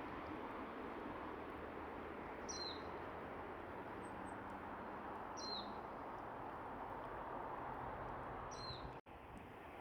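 A small bird giving a short, sharp call that slides down in pitch, three times about three seconds apart, over steady outdoor background noise.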